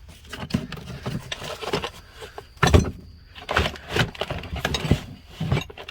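Rummaging through a tool bag: tools clinking and knocking against each other in a run of short irregular knocks, the loudest about three seconds in.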